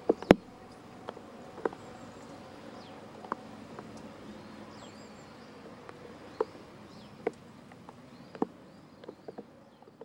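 Faint birds chirping over a low background hush, with a handful of sharp, irregular clicks and taps, the loudest about a third of a second in.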